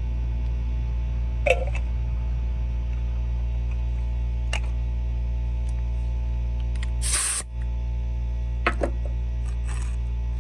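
Steady electrical mains hum, with a few brief knocks and clicks and a short, louder burst of noise about seven seconds in.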